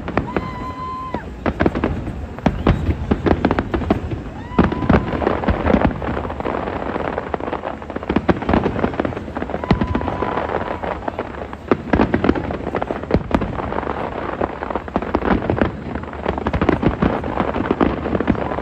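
Fireworks going off in rapid succession: a dense, continuous string of bangs and crackling bursts. A short, steady, whistle-like tone cuts in briefly about four times.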